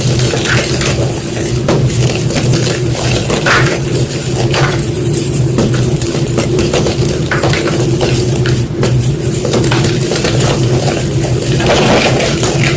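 White gym chalk being crunched, a quick irregular run of dry crackles, over a steady low hum.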